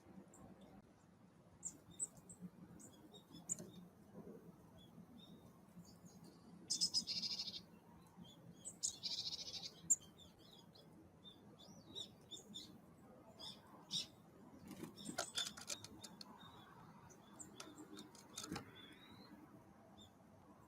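Small wild birds calling: scattered short, high chirps, with two louder harsh, buzzy calls about 7 and 9 seconds in, and a few light taps later on.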